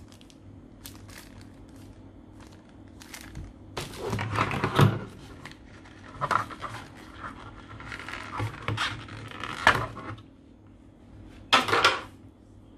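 Cardboard and plastic packaging being handled during unboxing: irregular rustling, clicks and knocks, the loudest near the middle and one sharp burst near the end.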